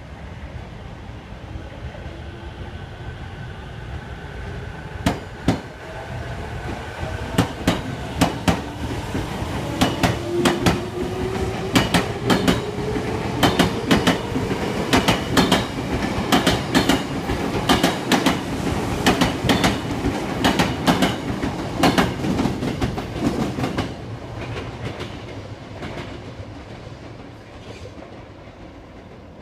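Tokyo Metro 05N series electric train pulling out: its traction motors whine, rising in pitch as it speeds up, and the wheels click over the rail joints. The clicks begin about five seconds in and come faster and faster, then the sound fades as the train moves away near the end.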